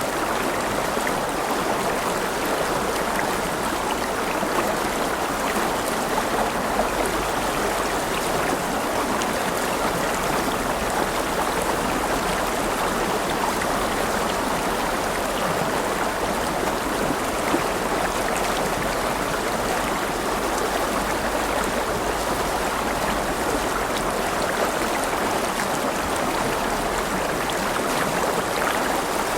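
River water flowing in a steady, even rush, with fine splashes through it.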